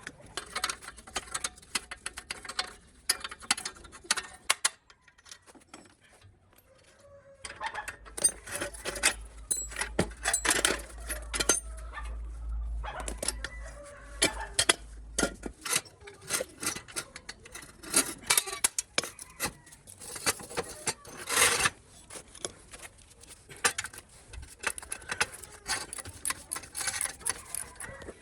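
Metal tools and parts clinking and clattering in quick, irregular knocks, as in hands-on repair work on a small motorcycle. A low hum runs under the clatter for several seconds in the middle.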